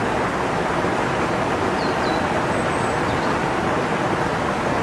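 Steady rush of open flowing water in a channel, an even noise with no rhythm.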